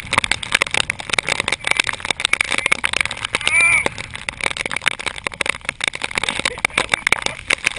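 Raindrops striking the camera and its lens: a dense run of rapid, irregular ticks over a rushing haze. A brief rising-and-falling tone sounds about three and a half seconds in.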